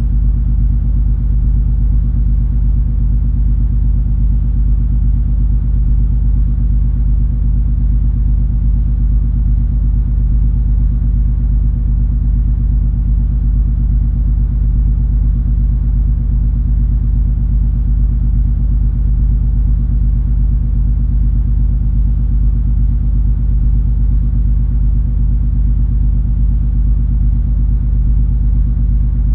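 Cruise ferry MS Color Fantasy's engines running under way: a steady low rumble with a constant hum, unchanging throughout.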